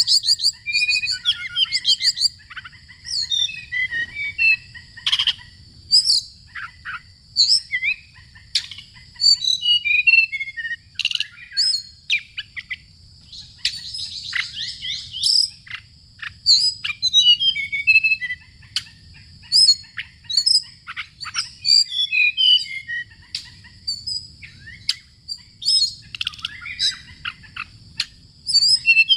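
Songbirds chirping and singing: many short, quick chirps and trills, several birds overlapping, over a steady high-pitched whine.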